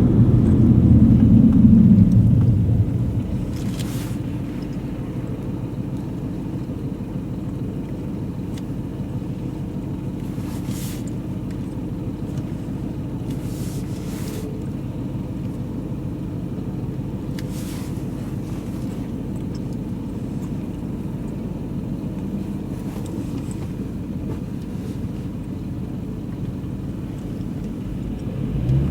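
BMW M3 E92's 4.0-litre V8 heard from inside the cabin: loud under throttle for the first two or three seconds, then easing off to a steady low engine note, and starting to rise again right at the end.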